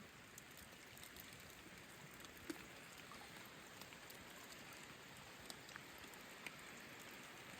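Near silence: a faint, even hiss with a few scattered soft ticks.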